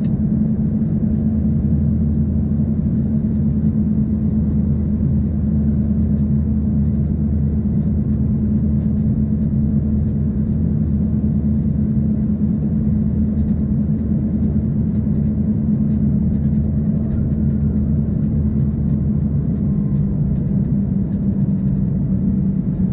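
Steady cabin drone of an Embraer ERJ-140 in flight: its rear-mounted Rolls-Royce AE3007 turbofans humming, with airflow noise over the fuselage, heard from a window seat.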